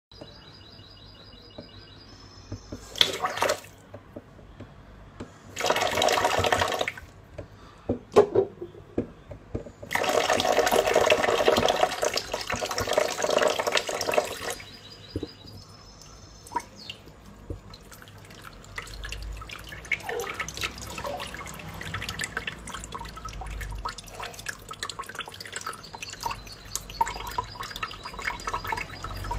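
Water splashing and dripping as a small bird bathes in a pool of water in cupped hands, with a few louder bursts of splashing in the first half and small quick splashes and drips after.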